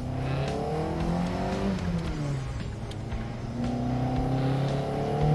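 Toyota AE86 Sprinter Trueno GTV's 4A-GE twin-cam four-cylinder, breathing through individual throttle bodies, revving under acceleration. The pitch climbs, falls back about two seconds in, then climbs again from about three and a half seconds.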